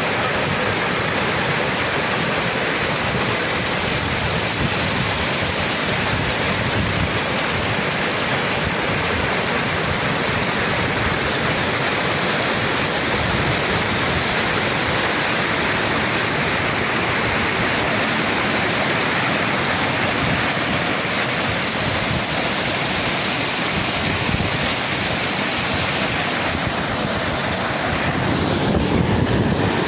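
Fast-flowing fresh water rushing steadily, an even, loud noise that swells slightly near the end.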